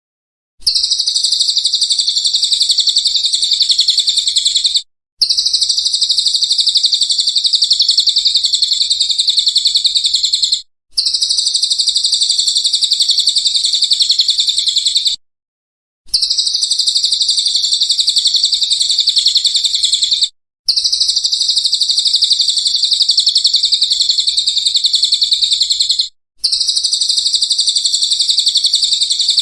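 A recorded songbird singing in long, fast, unbroken trills, high-pitched, in six bouts of four to six seconds each with short silent gaps between them. It is a masteran recording, a song track played to pet songbirds so they learn its phrases.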